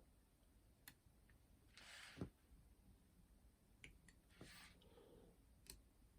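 Near silence with faint clicks and soft rustles of small parts being handled as a metal plate is fitted back onto the boombox's cassette mechanism, with one soft knock about two seconds in.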